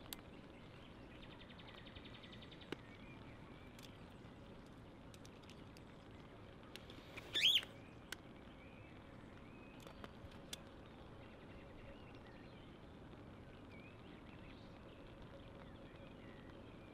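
A bird gives one short call about seven and a half seconds in, over faint steady background noise with a few scattered faint clicks.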